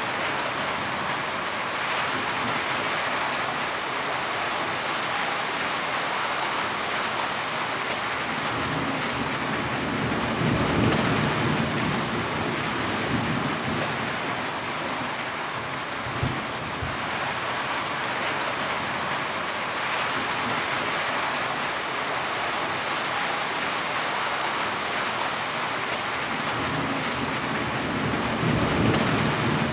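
Heavy rain falling steadily, with low rumbles swelling about ten seconds in and again near the end.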